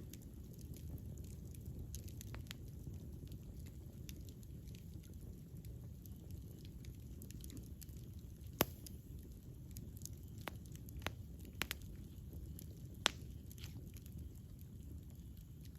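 Wood campfire burning with a steady low rumble and irregular crackles and pops, a few sharper snaps standing out about halfway through and again near the end.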